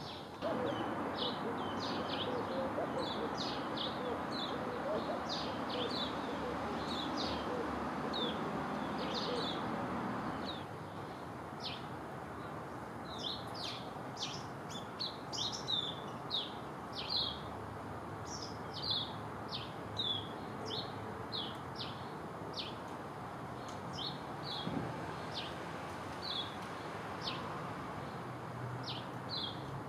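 Small birds chirping, many short high chirps scattered throughout, over a steady low rush of background noise that drops away about ten seconds in.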